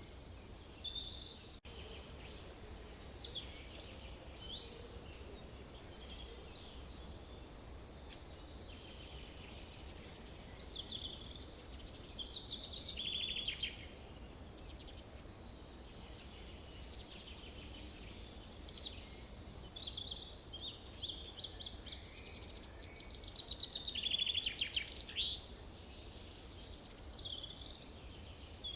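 Several songbirds singing and chirping in a forest, with fast trills that swell loudest twice, over a faint low background rumble.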